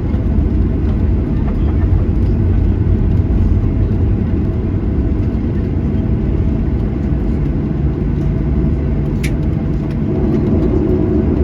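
Cabin noise inside a Boeing 737-800: the steady low rumble of its CFM56 engines and airframe, with a faint steady hum above it. A second, lower hum comes in about eight seconds in, and a single sharp click sounds just after it.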